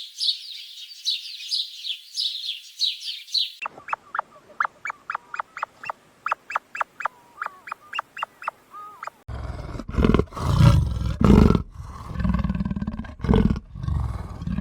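Animal calls in three parts. First a bird chirping rapidly and high. About three and a half seconds in, a rapid, even series of short, sharp calls takes over, about four a second. Around nine seconds in come loud, deep roaring calls from a large animal, several in a row.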